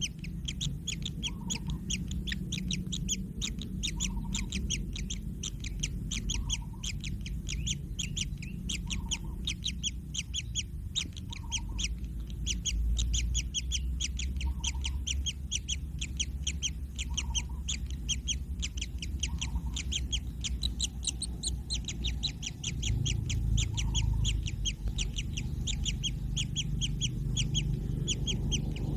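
Kingfisher chicks calling continuously: a rapid, unbroken string of short, high begging calls, several a second. A fainter lower note repeats every couple of seconds underneath.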